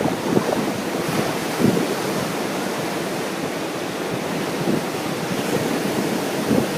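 Ocean surf washing steadily onto a beach, with strong wind buffeting the microphone in irregular low gusts.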